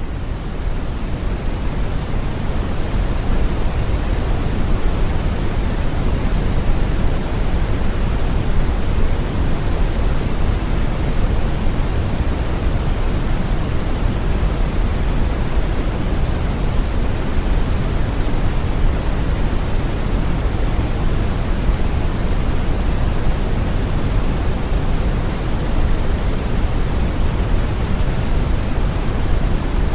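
Steady, deep brown noise: an even, featureless rushing hiss weighted toward the low end, swelling slightly in the first couple of seconds and then constant.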